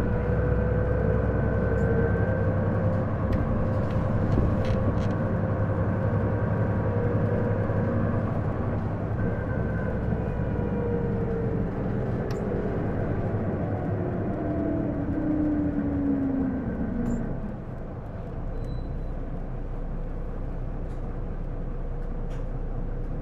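Isuzu Erga (PJ-LV234L1) city bus running, heard from inside, with its drivetrain giving a whine over the engine noise. The whine falls steadily in pitch through the middle, and the running sound drops quieter about two-thirds of the way in as the bus eases off. This whine is the abnormal noise the bus makes, which the owner suspects comes from the transmission.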